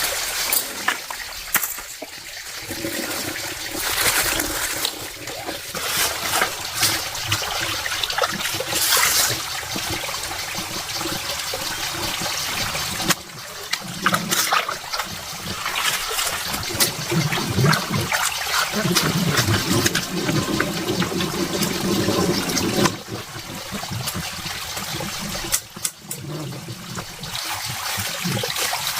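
Water trickling and splashing steadily, with uneven splashes throughout.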